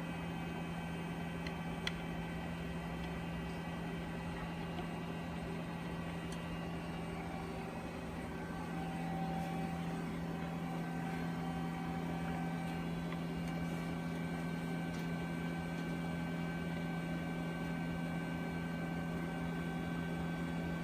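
Steady low machine hum with background hiss, a little louder from about eight seconds in; a faint click about two seconds in.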